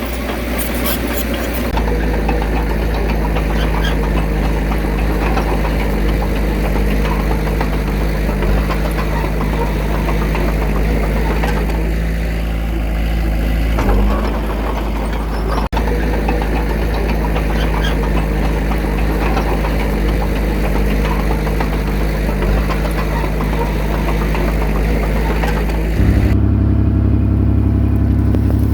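Diesel engine of earthmoving machinery running steadily. Its pitch shifts about two seconds in, again near the middle, and it steps up louder near the end.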